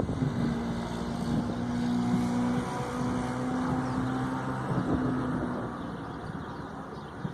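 A motor vehicle engine running with a steady hum, over wind rumbling on the microphone; the engine sound fades out about five and a half seconds in.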